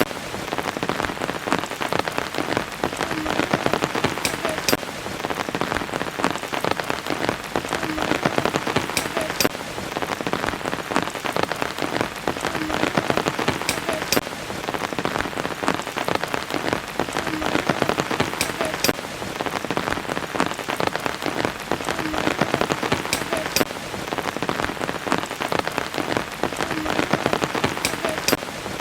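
Steady rain, many drops pattering densely on surfaces. A few sharper drop ticks come back in the same pattern about every four and a half seconds, as in a looped recording.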